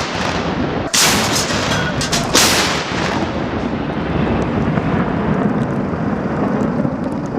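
Artillery booms from an M60 tank's gun fired for avalanche control: sharp booms about one and two seconds in, then a long low rumble.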